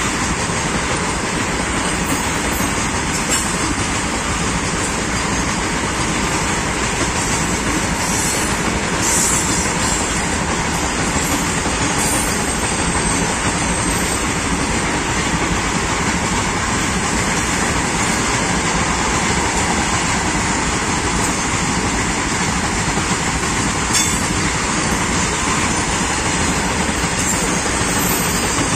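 Loaded freight wagons rolling past at close range: a steady rumble of steel wheels on rail with clickety-clack over the joints. A few brief high-pitched squeaks come through now and then.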